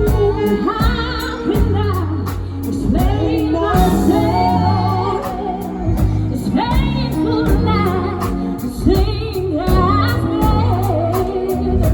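Live band playing a soul/R&B song: a singer holds wavering, melismatic lines over bass, keys and a steady drum beat.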